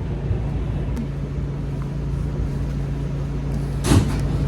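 Inside a New York City subway car: a steady low rumble with a constant hum, and one brief loud thump near the end.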